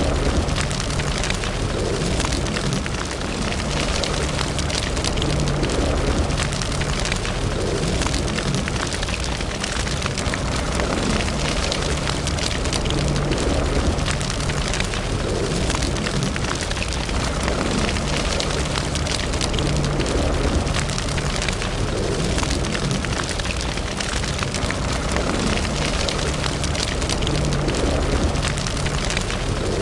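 Wood fire burning in a fireplace: a steady low roar with dense, continuous crackling and small pops.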